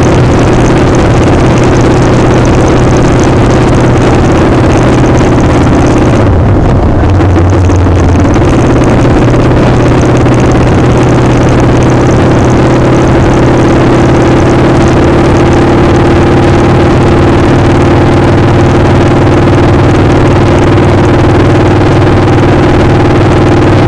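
Motorcycle engine running steadily under way, with heavy wind noise. About six seconds in the engine briefly eases off, its pitch dropping, then picks up again and holds a steady note.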